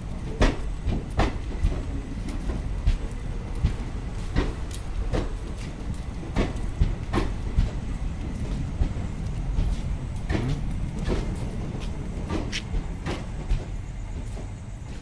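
Passenger train coaches rolling past at low speed: a steady low rumble with sharp wheel clicks over the rail joints, one or two a second. The sound eases near the end as the last coach goes by.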